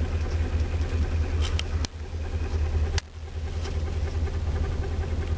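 Chevrolet 305 V8 idling steadily, heard from inside the car's cabin: an engine the owner says has bad valves. There are two short breaks in the sound about two and three seconds in.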